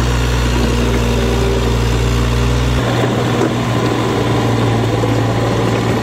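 Diesel engine of a heavy excavator running steadily. About three seconds in its deepest part drops away and the sound changes character, while the engine keeps running.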